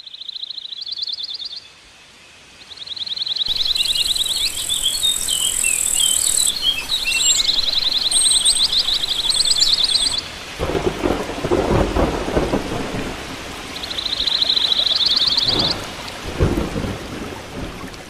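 Birdsong in repeated rapid trilling phrases over steady rain, with a roll of thunder about ten seconds in and another shorter one near the end.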